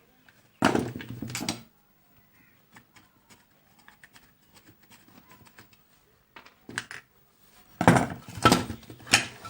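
Clatter and knocks of a battery charger's case and circuit board being handled as the board is taken out, with small clicks in between. There are two louder bursts, one about a second in and one near the end.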